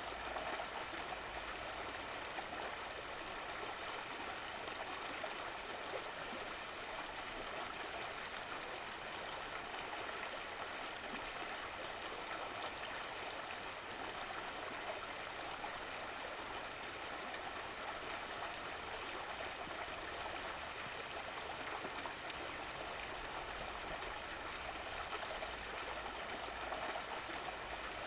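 Running water flowing steadily, an even, continuous rush with no breaks or changes.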